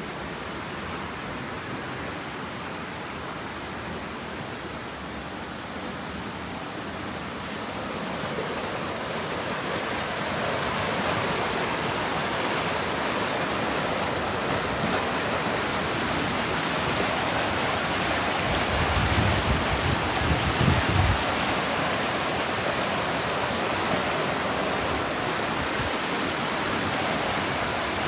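Steady rush of running water, growing louder about a third of the way in, with a short low rumble a little past two-thirds of the way through.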